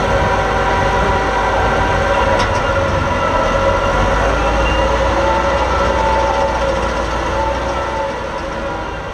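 Super stock pulling tractor's engine running loud and steady, with a steady whine over a deep rumble, beginning to fade near the end.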